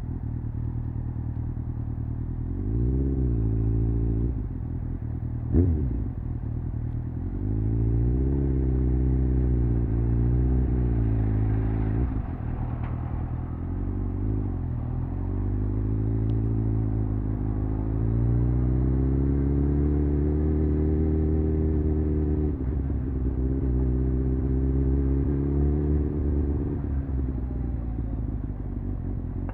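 Honda CBR600F's inline-four engine and exhaust under way, the revs rising and falling again and again with throttle and gear changes, including one long climb in the second half. A brief sharp crack about five and a half seconds in.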